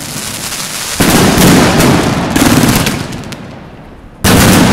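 Fireworks going off: a hissing, crackling rush that jumps loud about a second in and dies away, then another sudden loud burst near the end.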